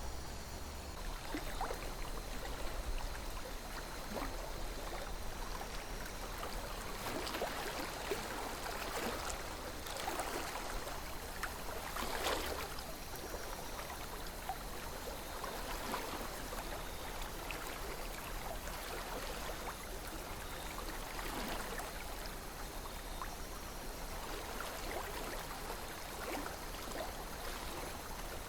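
River water flowing and gently babbling, a steady rush with small splashes and trickles that swell briefly in the middle.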